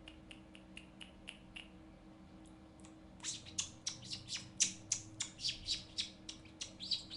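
Cockatiel chirping: faint short chirps at first, then from about three seconds in a quick run of louder, sharp, downward-sliding chirps, about three or four a second.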